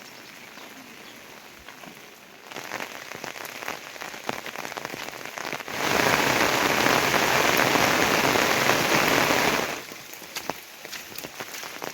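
Rain falling steadily with individual drops ticking, turning much heavier and louder for about four seconds in the middle before dropping back abruptly.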